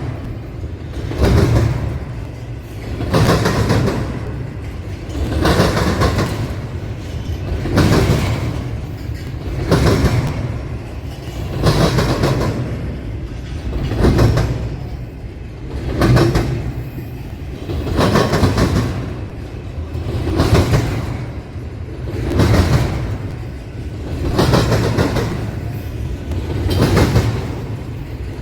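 A passing train's wheels clattering over a railroad crossing diamond, the clatter swelling in a steady rhythm about once every two seconds as each car goes by, over a continuous rolling rumble.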